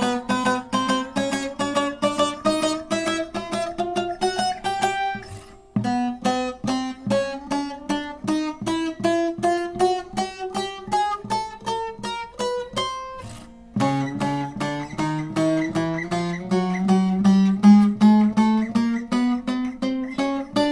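Short-neck bağlama with a mulberry bowl and spruce top played fret by fret: single plucked notes climbing up the neck in three rising runs, each starting again from the bottom. The notes ring clean, with no fret buzz.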